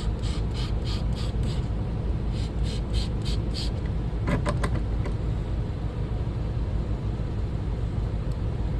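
Electric sharpening machine running with a steady low hum while a shear blade is drawn across the spinning hone in short, regular hissing strokes, about three a second, with a brief rasp about four seconds in. This is a test pass to see where the marker ink comes off the bevel and check the angle.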